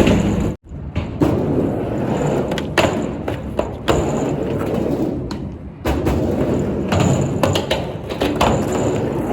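Skateboard riding a mini ramp: the wheels roll with a steady rumble, broken by several sharp knocks and thuds from the board.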